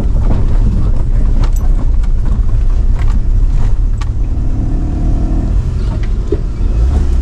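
A motor vehicle driving along a rough, potholed mountain road, its engine giving a steady low rumble, with scattered rattles and knocks from the load as it jolts.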